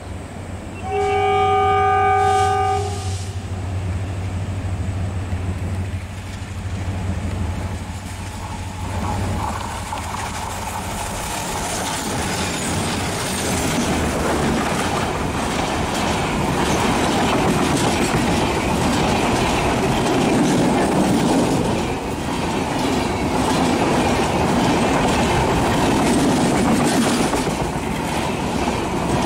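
An ALCO-engined WDM-3D diesel locomotive blows its multi-note horn for about two seconds as it leaves the tunnel, over the low drone of its diesel engine. Then its passenger coaches run past with a steady rumble and rhythmic wheel clatter over the rail joints.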